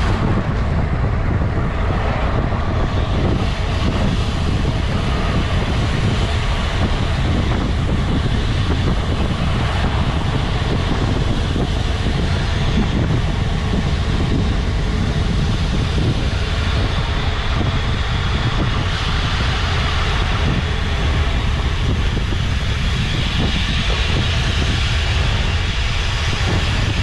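Steady rushing wind on the microphone with a deep, even road rumble from a road bike riding along.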